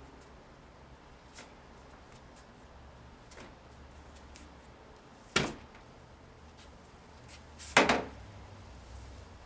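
Sharp knocks over faint scattered ticks: one loud knock about halfway through and a quick cluster of two or three near the end.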